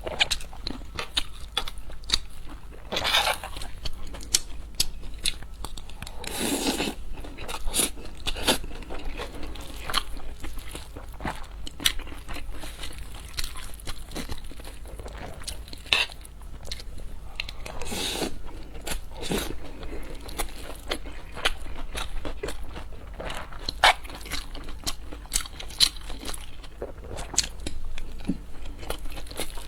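Close-miked eating sounds: crunchy bites and chewing of food, with many irregular small clicks and a few longer noisy stretches.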